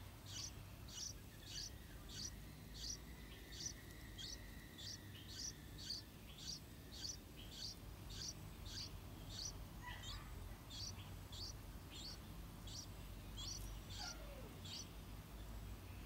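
A small bird's short, high chirps, repeated steadily about two a second, stopping shortly before the end.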